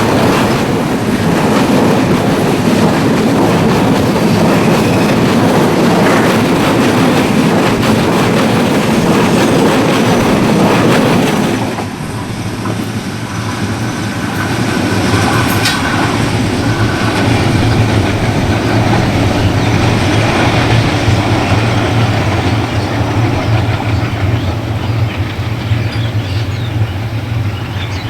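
Passenger express train running past at speed, a loud rolling rumble with the clickety-clack of wheels over rail joints. About twelve seconds in the noise drops abruptly, leaving a steadier low hum as the train goes on by.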